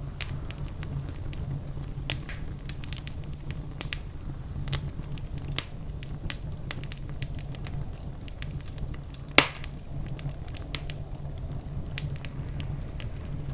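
Fireplace fire crackling: a steady low rumble of flames under scattered sharp snaps, with one much louder pop about two-thirds of the way through.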